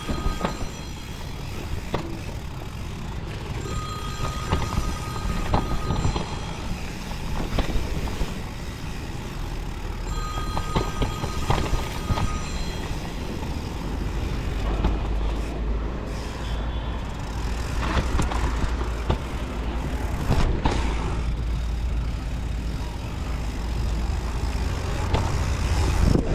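Mountain bike ride: a steady rush of wind and rolling noise with frequent knocks and rattles, a heavier low rumble in the second half, and three spells of a steady high buzz in the first half.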